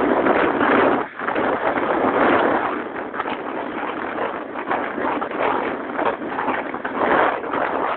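Rushing wind and road noise on a cellphone microphone riding a moving motorbike, surging unevenly and dipping briefly about a second in.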